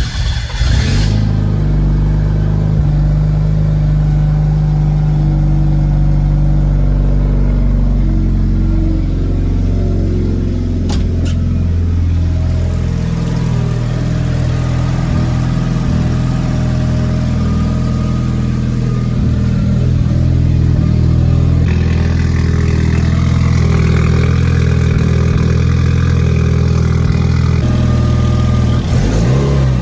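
Nissan SR20DET turbocharged four-cylinder engine in a BMW E36 drift car, freshly started and running at a steady idle. The idle pitch shifts about eight seconds in, and the engine gets a little louder and brighter from about two-thirds of the way through.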